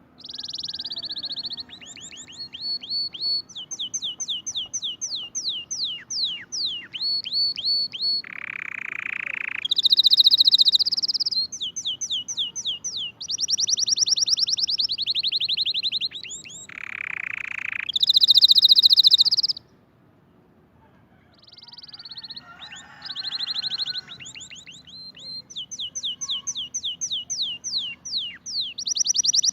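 A pet songbird singing long phrases of fast repeated high notes, each run switching to a new note type. Twice, about a third and two thirds of the way in, the song drops into a harsher, lower buzzing note, and there is a short pause in the song after the second one.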